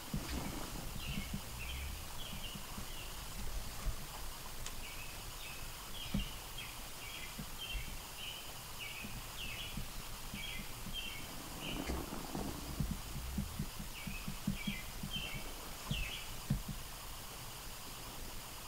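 A songbird calling outdoors in a long series of short, high chirps about two a second, pausing once for a couple of seconds before starting again, with faint low knocks now and then underneath.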